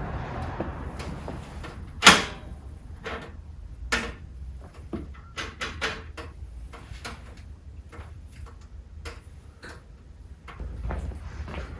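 A loud, ringing knock about two seconds in, followed by scattered irregular clicks and lighter knocks, like objects being handled and set down.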